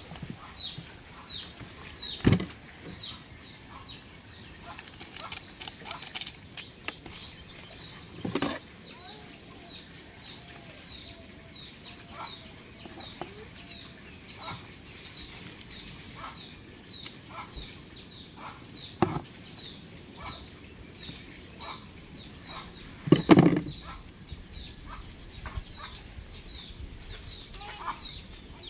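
A bird chirping over and over, short falling high notes about two a second, with four scattered knocks, the loudest near the end.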